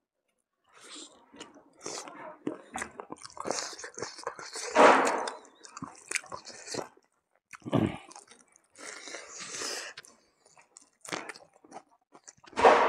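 Close-miked chewing of buffalo meat and rice eaten by hand, irregular mouth smacks and clicks with several louder bursts.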